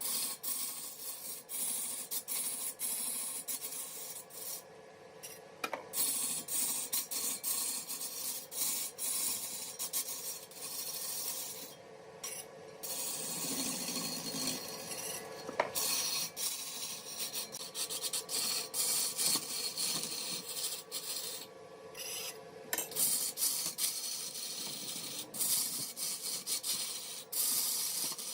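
Mahogany being cut on a woodworking lathe: a tool scraping against the spinning wood with a continuous rasping hiss, scattered small clicks, and a steady faint hum underneath. The hiss breaks off briefly a few times.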